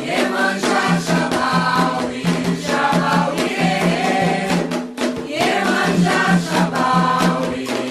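Candomblé song for Iemanjá: a chorus of voices singing the response together over steady hand-drum strokes, coming in all at once right after a lone lead voice.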